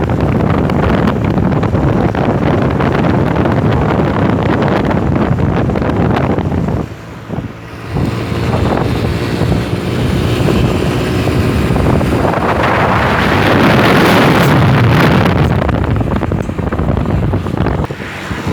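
Road traffic heard close by, with wind buffeting the microphone. The noise drops briefly about seven seconds in, then a vehicle passes close, swelling to the loudest point about two-thirds of the way through.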